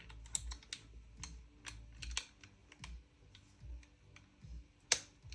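Irregular small clicks and taps of metal and plastic gun parts and tools being handled while a Krytac Kriss Vector gas-blowback airsoft gun is taken apart, with one sharper knock near the end.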